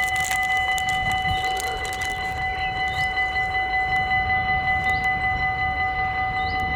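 NS Sprinter Nieuwe Generatie electric train, a steady whine of several high tones over a low rumble.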